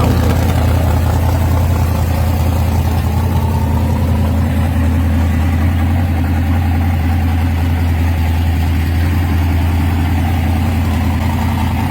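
Old-school Pontiac gasser's engine idling steadily through a baffled exhaust, with its new cam.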